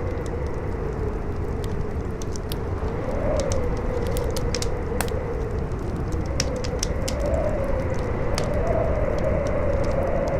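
Campfire crackling with scattered sharp pops, over strong wind howling in a wavering tone that rises and falls, with a low rumble beneath.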